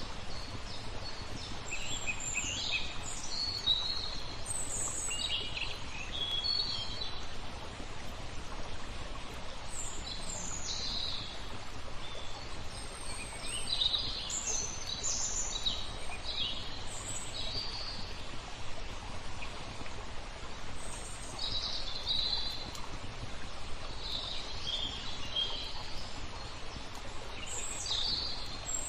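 Small songbirds chirping and trilling in short, scattered phrases over a steady hiss of flowing water.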